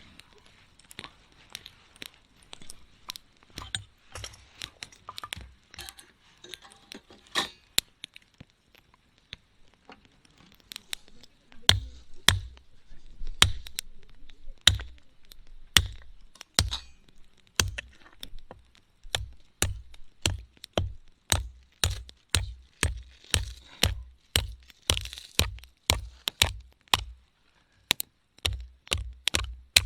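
Wood campfire crackling and popping in sharp, irregular snaps. In the second half a regular low thump with a click comes in, about twice a second.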